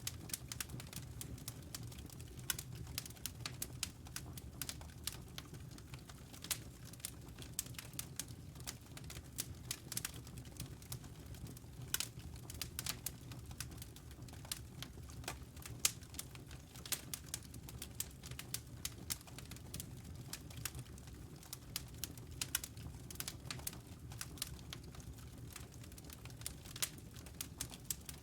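Wood fire crackling in a fireplace: many sharp, irregular pops and snaps over a low, steady rumble.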